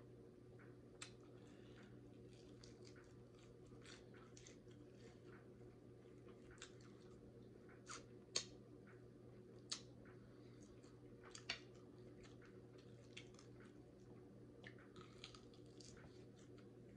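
Faint chewing, lip smacks and finger-licking of someone eating fried chicken: a scatter of short, quiet smacks and clicks, the strongest about eight and eleven seconds in. Under it a faint steady hum of room tone.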